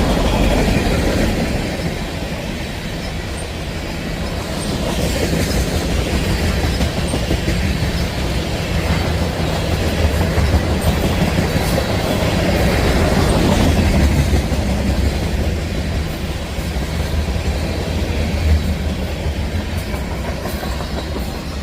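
CSX freight train rolling past with a steady low rumble, its wheels clicking over the rail joints.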